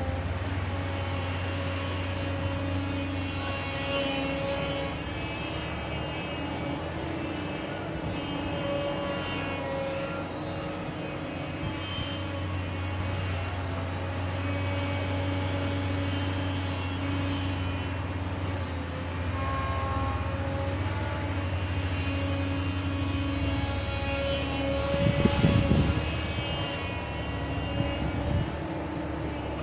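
Heavy diesel engine running steadily, with a louder surge of rumble near the end.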